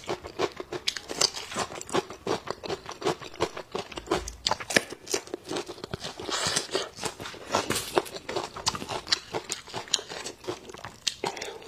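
Close-miked crunchy chewing: a piece of sour-spicy pickled ginger bitten and chewed, with many quick, irregular crunches and wet mouth sounds.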